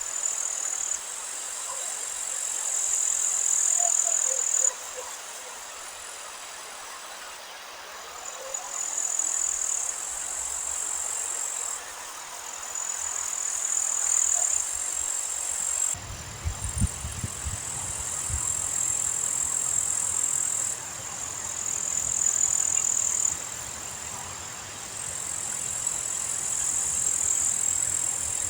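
Meadow insects trilling, high and steady, in long stretches that start and stop every few seconds. From about halfway, gusts of wind buffet the microphone with low rumbles.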